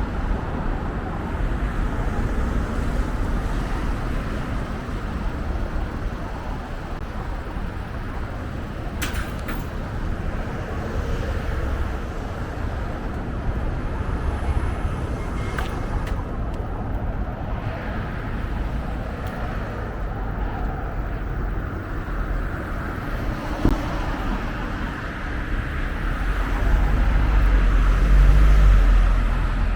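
Road traffic noise from passing vehicles. Near the end a low rumble builds and then fades, as a vehicle passes close by.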